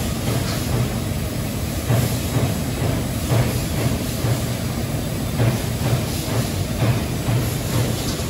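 Amada LC3015F NT CNC laser cutting machine running while it cuts 12-gauge steel: a steady mechanical drone with a strong low hum and irregular louder pulses about once a second.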